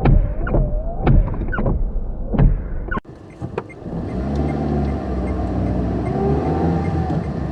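Car interior sound: a repeating rhythmic sound about twice a second, which cuts off suddenly about three seconds in. A steady car engine hum takes over, its pitch rising slightly and then falling.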